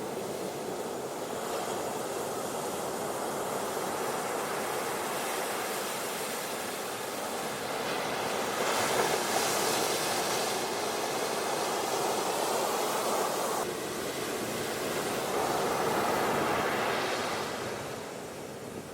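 Ocean surf washing onto a beach, a steady rush that swells into a louder wave about halfway through and another a few seconds later, then eases off near the end.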